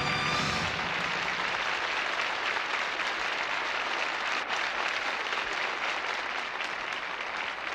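Concert audience applauding at the end of a song. The band's last chord cuts off about half a second in, and the clapping goes on steadily after it.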